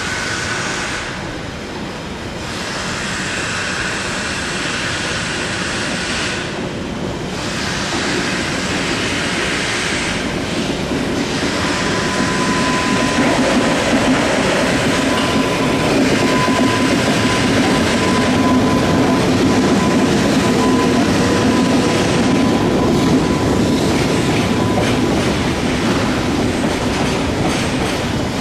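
EH200 electric locomotive and a long train of tank wagons rolling past very slowly, the wheels clattering over the rail joints and getting louder as the train comes closer. From about halfway through, a thin, steady squeal comes from the wheels.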